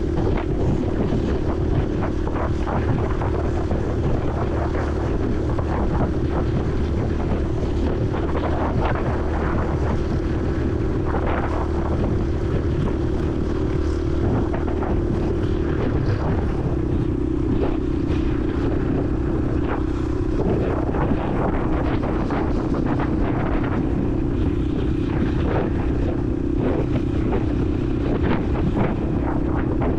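Honda CRF150L's single-cylinder four-stroke engine running steadily under way, heard from a helmet-mounted camera with wind on the microphone. The engine note drops slightly about halfway through.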